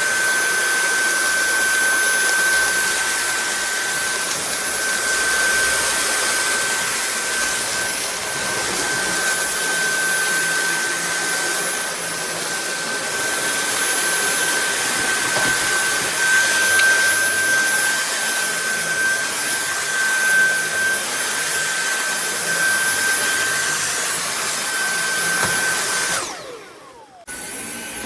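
Cordless vacuum cleaner running steadily, a rushing air noise with a constant high motor whine. Near the end the motor cuts out and spins down, then starts again about a second later.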